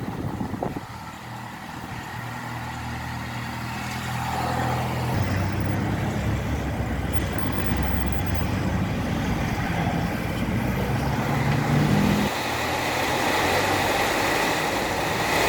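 A motor vehicle's engine running steadily with a low hum over a steady hiss. The engine hum drops away near the end.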